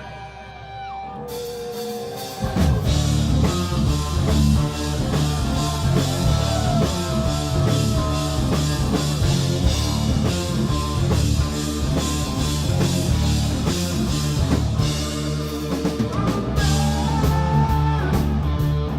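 Live rock band playing: a quieter electric guitar passage of held notes, then about two and a half seconds in the full band comes in loud with drums, bass and electric guitar.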